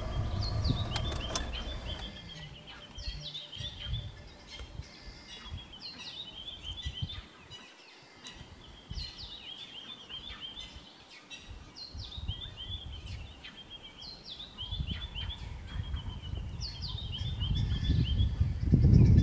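A songbird repeating the same short song phrase about every two seconds: a few quick falling notes, then a fast trill. A low rumble sits under it in the first two seconds and grows louder again near the end.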